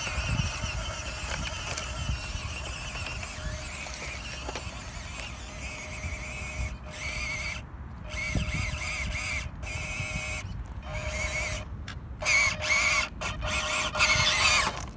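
Electric motor and gearbox of a small radio-controlled off-road car whining as it drives, the pitch rising and falling with the throttle, with several short breaks in the second half.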